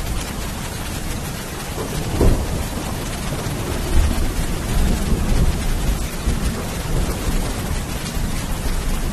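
Steady heavy rainfall with thunder: a sharp crack about two seconds in, followed by low rolling rumbles from about four seconds in.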